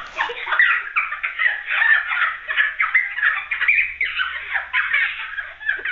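A pet bird chattering and warbling in a rapid, unbroken run of short chirpy notes.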